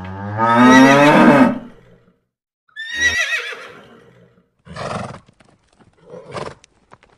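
Horse whinnying loudly in the first second and a half, with a low steady tone underneath, then a second, shorter whinny about three seconds in. Two brief shorter sounds follow, and faint light ticks come near the end.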